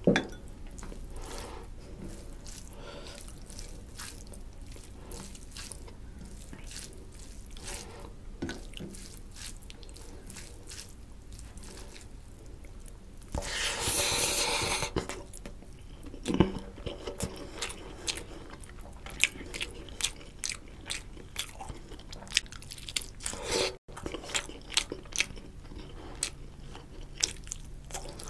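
Close-miked eating by hand: wet chewing of rice and fish curry, with many sharp mouth clicks and smacks that come thicker in the second half. About halfway through, a slurp of about a second and a half as a handful of rice is pushed into the mouth.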